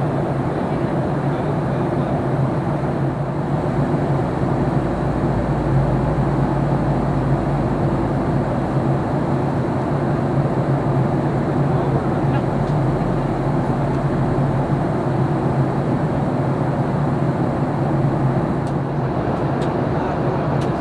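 Steady drone inside the cabin of a Boeing 737-800 airliner during descent: engine and airflow noise with a steady hum, and a deeper rumble that swells for several seconds in the middle.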